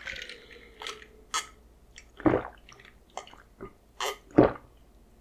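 Close-miked wet mouth sounds of eating: chewing with lip smacks and short moist clicks, about seven separate ones, the loudest about two seconds and four and a half seconds in.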